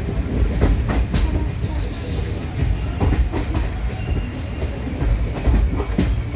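Passenger train running, heard from on board: a steady low rumble with irregular wheel clatter and knocks, and a brief hiss about two seconds in.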